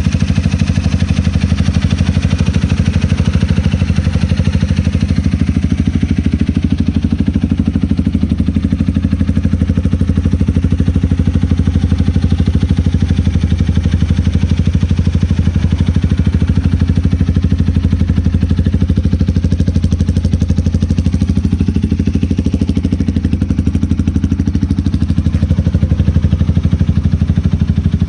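Honda Rebel 250's single-cylinder engine idling steadily through an aftermarket Diablo muffler.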